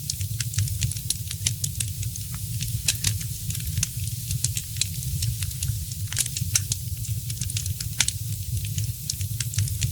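Wood fire crackling, with frequent sharp pops and snaps scattered irregularly over a steady low rumble of the burning fire.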